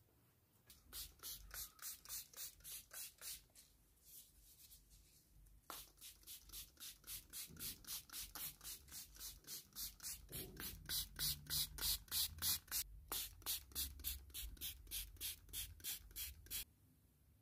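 Rhythmic rubbing strokes, about three to four a second, like scrubbing or wiping by hand. They pause briefly a few seconds in, pick up again and grow stronger, and stop shortly before the end.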